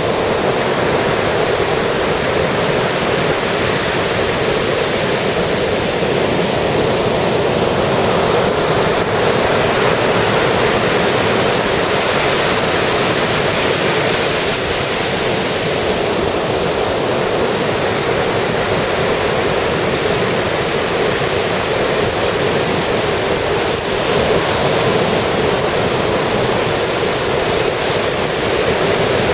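Ocean surf: waves breaking and washing up the shore in a steady, unbroken wash of noise, swelling and easing slightly as each wave comes in.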